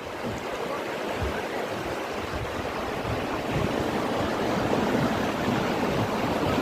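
Steady rush of river water, swelling slowly louder.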